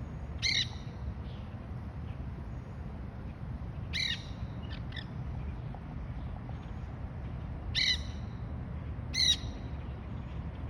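Quaker parrots (monk parakeets) calling: four short calls spread across several seconds, with a smaller one just after the second, over a steady low background rumble.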